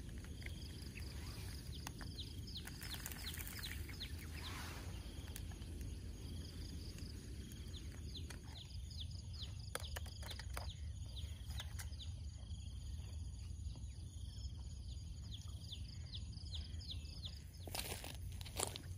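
Birds chirping, a run of short falling notes repeated many times, over a steady low rumble. A couple of brief sharp rustles come near the end.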